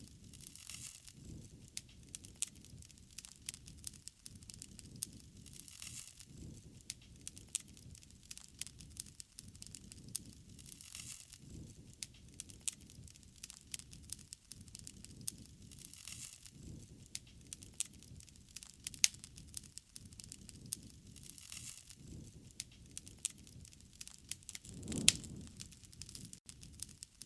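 Wood fire crackling, with many sharp pops and snaps over a soft rushing of flame that swells every few seconds. Near the end comes one louder, deeper rush.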